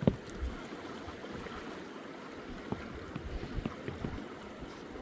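Steady rush of flowing river water, with a sharp knock just after the start and a few lighter knocks and clicks in the second half.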